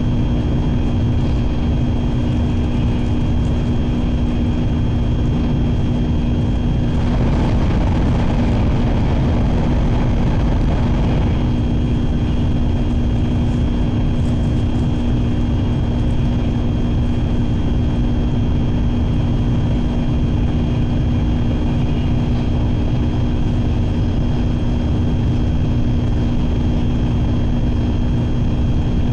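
Steady running noise heard inside a Shinkansen bullet-train car at speed: a low rumble with a constant hum. A louder rushing swells up about seven seconds in and fades away about five seconds later.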